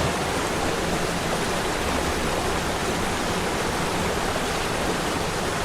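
Waterfall rushing steadily: a continuous, even water noise.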